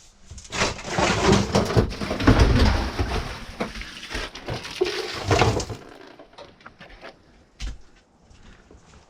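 Heavy clattering and crunching of debris being shifted and broken up, a dense run of knocks lasting about five seconds, then a few scattered knocks.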